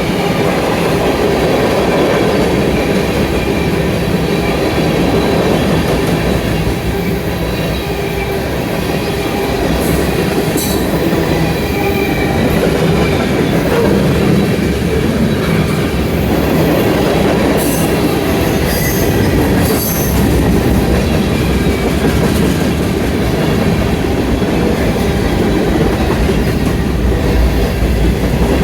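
CSX freight train rolling steadily past, its wheels running over the rails. Brief high-pitched wheel squeals come about ten seconds in and again a few times near the middle.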